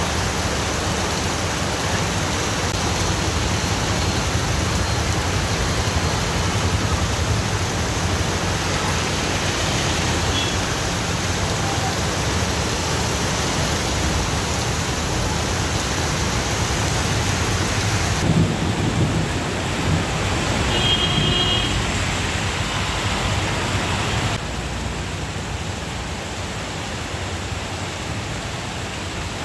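Heavy monsoon rain pouring down steadily, a dense even hiss with a low rumble beneath. It drops in level at cuts about 18 and 24 seconds in, and a brief high-pitched tone sounds around 21 seconds.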